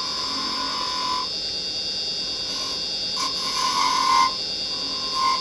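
Wood lathe running with a steady high whine while a carbide-tipped detail chisel makes light, intermittent cuts into a spinning finial, the cutting sound swelling and fading several times.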